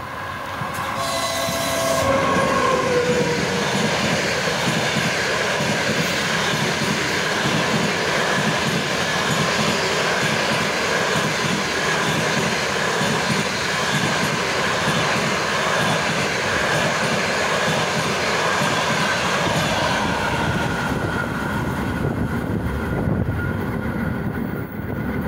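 ChS4 electric locomotive and its passenger coaches passing at speed, with the steady rumble and clatter of the wheels rolling by. A short tone falls in pitch about two seconds in, and the sound thins out after about twenty seconds as the train draws away.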